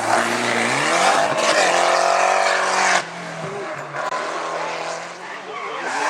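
A hillclimb race car's engine at high revs, its pitch rising about a second in and then holding. About halfway through it drops abruptly to a quieter, more distant engine sound.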